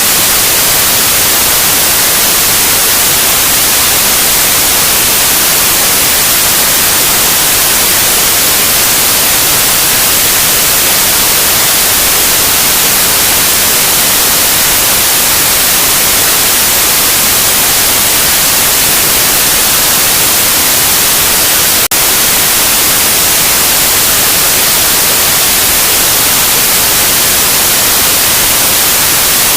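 Loud white noise: a steady, even hiss that does not change, with one split-second dropout about two-thirds of the way through.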